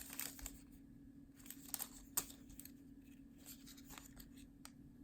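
Faint crackling and clicking of plastic packaging being handled, with a cluster of sharp clicks in the first two seconds and a few more near the end, over a low steady hum.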